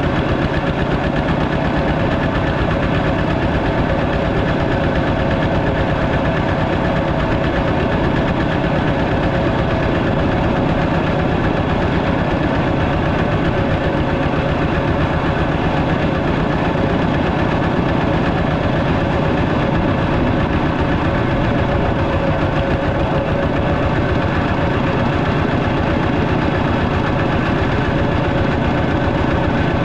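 Walking tractor engine running steadily, with a rapid, even pulse and no change in speed.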